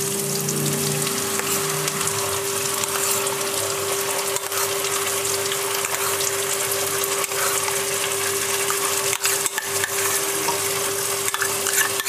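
Onion, garlic and ginger paste sizzling steadily in hot oil in a non-stick wok, with a few light clicks and a steady hum underneath.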